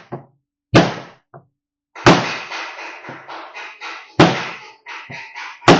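Dead-blow mallet striking a block of wood held against a truck's bent steel door edge, knocking the edge straight. Four sharp knocks come about a second and a half apart, with a crackling clatter in between.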